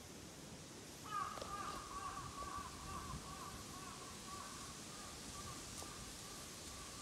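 A bird calling over and over in a run of short, wavering notes that starts about a second in and goes on steadily.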